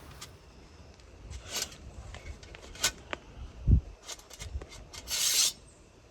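Camping gear being handled: scattered rubbing, scraping and small clicks, a dull thump a little past halfway, and a brief loud rustle near the end.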